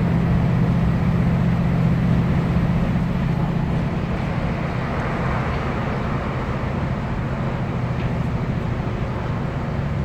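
A Class 156 Super Sprinter diesel multiple unit heard from inside the carriage: its underfloor Cummins diesel engine hums steadily over the rumble of the wheels on the rails. The engine note weakens about three to four seconds in while the rail noise carries on.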